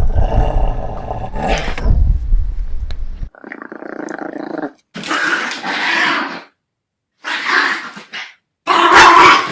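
Dogs growling: a continuous rumbling growl for about three seconds, then four separate bursts of growling and snarling divided by short silences, the last the loudest.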